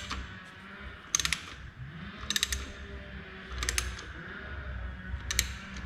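Hand ratchet tightening a bolt: four short strokes, each a quick run of pawl clicks, about a second apart.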